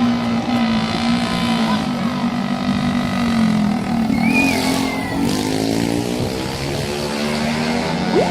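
Motorcycle engines running steadily, their pitch drifting slightly down and back up. A brief high whistle-like tone sounds about four seconds in.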